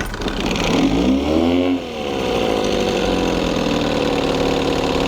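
1968 Evinrude 6 hp two-stroke outboard engine just started cold: it revs up about a second in, drops back, then settles into steady running as it warms up.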